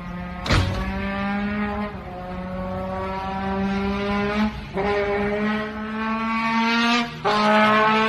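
A car engine accelerating under load: its steady note climbs slowly in pitch and drops back at gear changes about two, four and a half, and seven seconds in. A sharp crack comes about half a second in.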